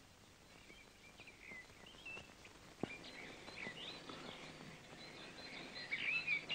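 Birdsong: short chirps and twitters, sparse at first and growing busier and louder toward the end, with one sharp click about three seconds in.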